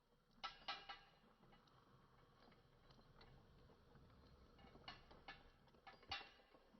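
A few light, sharp clicks of small parts of a diecast toy refuse truck being handled: three close together near the start and four more near the end, with near silence between.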